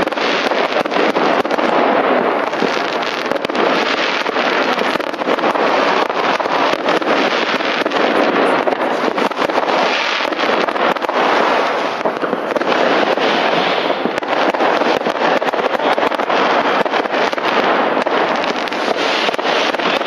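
Massed fireworks going off without a break: a dense continuous crackle, thick with many sharp bangs.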